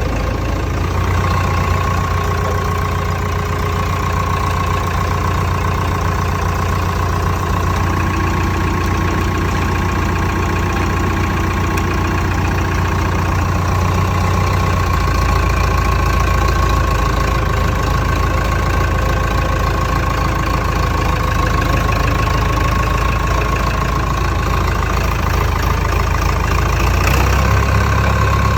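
Massey-Ferguson 188 tractor's Perkins 4.248 four-cylinder diesel engine idling steadily, with a thin steady whine running alongside it.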